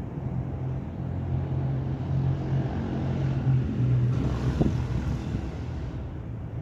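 Low rumble of a thunderstorm with wind buffeting the microphone, swelling in the middle and easing near the end.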